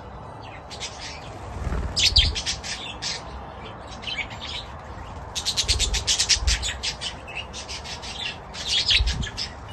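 Budgerigars chirping and chattering in several quick bursts of rapid, high chirps, with short pauses between.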